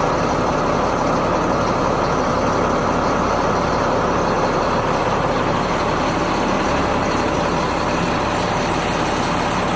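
Caterpillar C7 diesel engine of a Freightliner M2 truck running steadily at idle.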